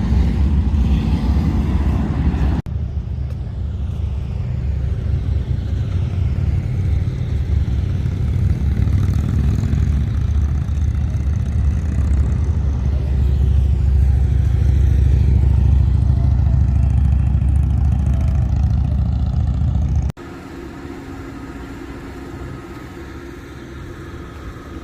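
Motorcycle riding at speed: the engine drone with wind rumbling and buffeting over the microphone. The sound cuts abruptly twice, and near the end it drops to a quieter steady hum.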